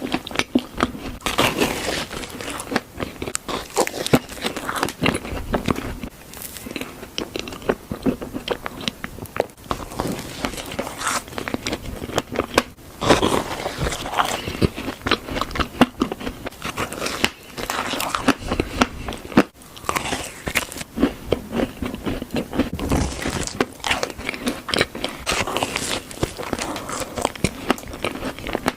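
Close-up eating sounds: biting and chewing crunchy food, with a dense, irregular run of sharp crunches and mouth noises.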